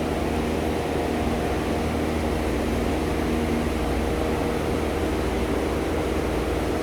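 Steady machine hum and rushing air, like ventilation fans running, with a few faint steady tones in it.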